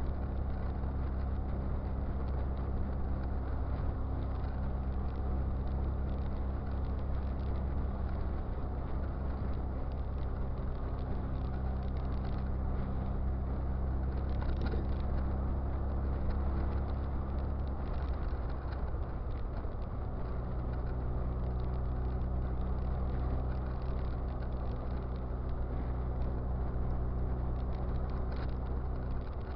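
A Westfield open two-seater's engine running at a steady cruise, heard from on board over road and wind noise. The engine note wavers and settles at a different pitch about two-thirds of the way through.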